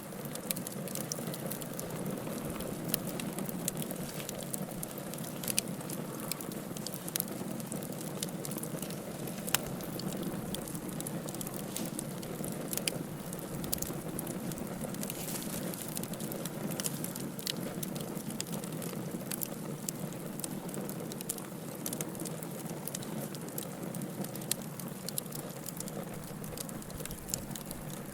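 Log fire crackling in a fireplace: a steady hiss and low rumble of burning logs with frequent sharp pops and snaps at irregular intervals.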